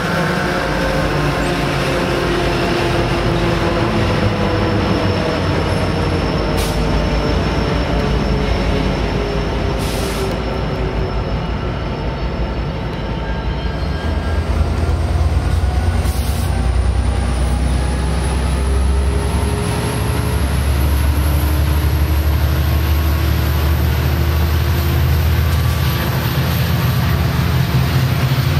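Metrolink commuter train with EMD F59PH-type diesel locomotives rolling past: a steady diesel engine rumble over wheel and rail noise, with faint wheel-squeal tones. The engine rumble grows heavier about halfway through as a second locomotive comes by.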